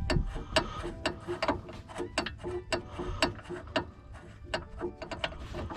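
Hand ratchet clicking in a run of quick strokes, about two to three clicks a second, as a large bolt on the rear suspension is worked loose.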